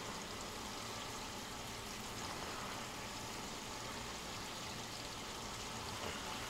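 Shredded cabbage frying in bacon grease in a pan, a steady sizzle.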